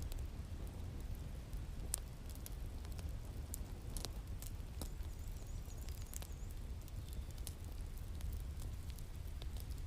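Wood fire crackling in a fireplace: scattered sharp pops over a steady low rumble, with the loudest pop about two seconds in.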